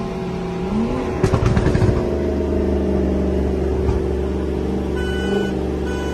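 Car engine heard from inside the cabin while rolling alongside another car. The revs rise briefly about a second in, then settle into a steady drone.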